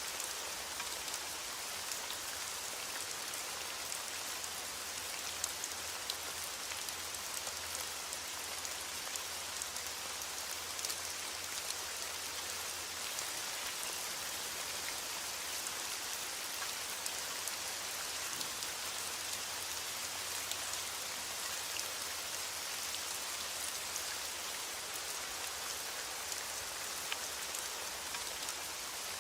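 Steady rain falling: a dense, even hiss of rain with many small scattered drop ticks on a hard surface.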